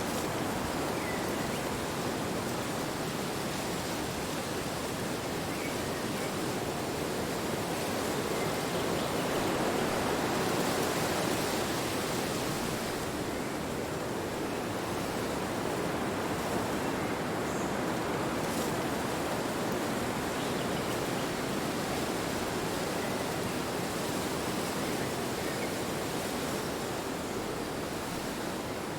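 Wind blowing steadily, an even rushing that swells and eases slowly, loudest about a third of the way through.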